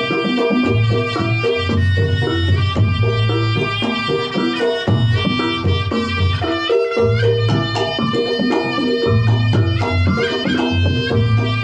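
Reog Ponorogo music: a slompret (Javanese shawm) plays a wavering, sliding melody over kendang drums and struck gong-chime accompaniment, loud and continuous.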